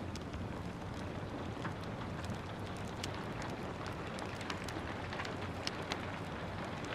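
Steady rain with a low rumble, mixed with the irregular snapping crackles of a wood fire burning in a fireplace; a couple of the pops stand out louder near the end.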